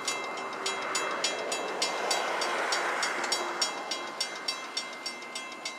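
Railroad crossing bell ringing steadily at about four strikes a second over the rising noise of an approaching freight train.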